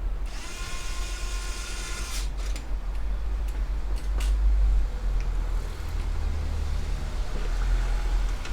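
Electric screwdriver running for about two seconds as it drives a screw, a whine with many overtones. A few sharp clicks follow, over a steady low rumble.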